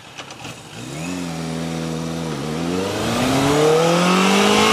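Yamaha XJ750 Seca's air-cooled inline-four accelerating under way, its pitch climbing from about a second in, dipping briefly at a gear change, then rising steadily again. Wind rushes over the microphone throughout.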